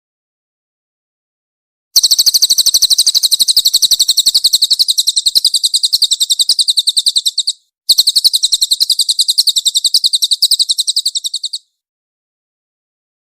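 Cililin songbird singing a fast, tightly packed run of high chirps, about ten notes a second, in two long bursts with a short break between them, starting about two seconds in and stopping well before the end.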